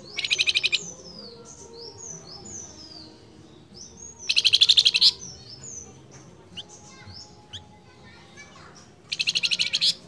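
Male flamboyan bird singing: three loud, fast trills of rapidly repeated notes, each under a second long and about four and a half seconds apart, with fainter falling whistles in between.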